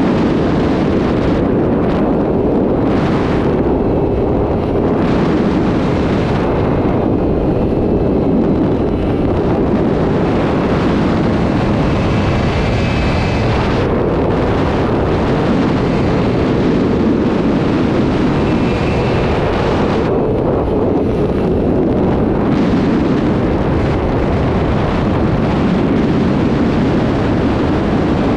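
Superbike engine running at highway speed, with heavy wind rush on the microphone. Faint high whines come through about halfway in.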